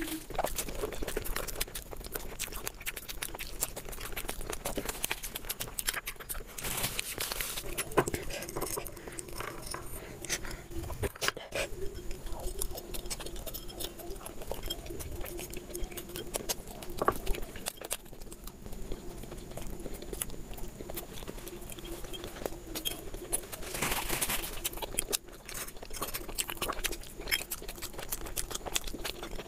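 Close-miked eating: chewing and wet mouth sounds from a paper-wrapped roll and a forkful of instant noodles, with many small clicks and smacks. There are two louder noisy spells, one about a quarter of the way in and one near the end.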